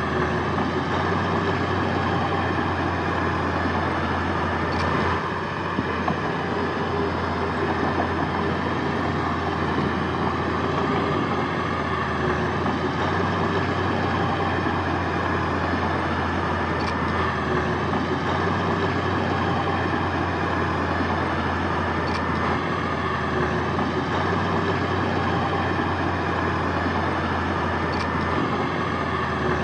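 Heavy diesel earthmoving machinery running steadily, with a few faint ticks.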